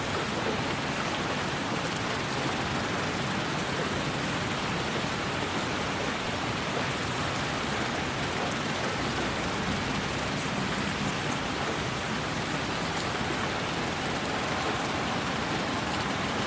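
A steady, even rush of rain-like white noise, with faint scattered ticks high up.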